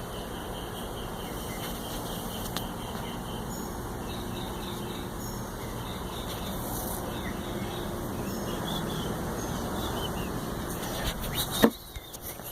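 Steady whirring of a box fan running, with faint high chirps over it and one sharp knock near the end.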